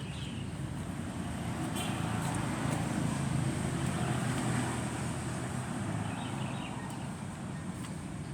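Truck engine running steadily, a low hum that grows a little louder in the middle.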